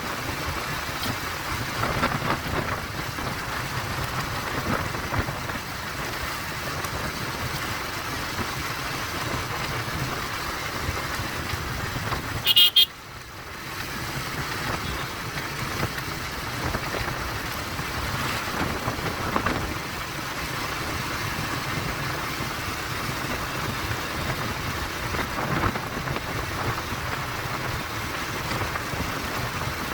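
Steady rush of wind and road noise with a motorcycle engine underneath, as heard while riding a Bajaj Pulsar 150, a single-cylinder bike. About thirteen seconds in a short, loud, high-pitched burst is heard, then the sound drops for a moment before the rush returns.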